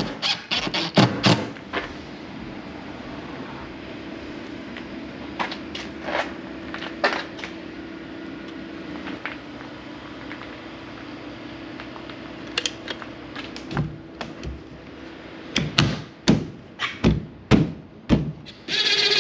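Scattered knocks and taps from fitting a window into a wooden camper shell, with a quick run of several knocks near the end, over a steady low hum.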